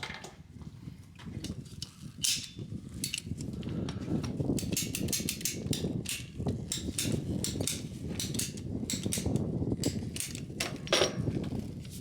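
Irregular light clicks and knocks over a low, steady rumble, coming thick and fast from about two seconds in.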